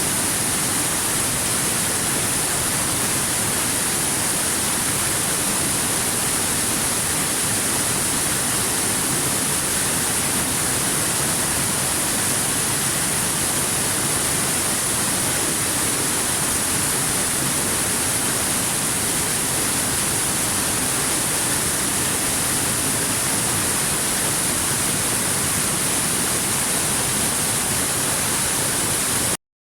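Waterfall rushing as a steady, even hiss of falling water. It cuts out to silence for a split second near the end, then resumes.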